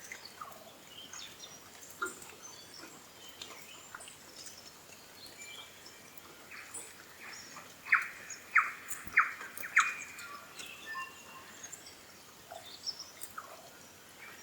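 New Zealand bellbird (korimako) singing. Scattered short chirps are broken a little past halfway by a run of about seven strong notes over some three seconds, the last four the loudest.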